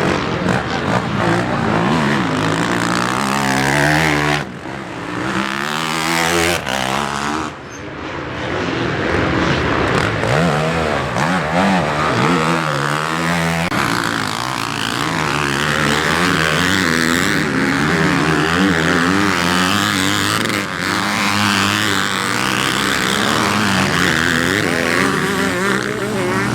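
Motocross bike engine revving hard and backing off again and again, its pitch rising and falling as it is ridden through the gears. There are brief throttle cuts about four and a half and seven and a half seconds in.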